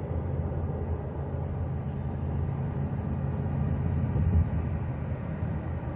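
Steady low road and engine rumble heard from inside a truck cab while driving at highway speed, with one brief louder bump a little past four seconds in.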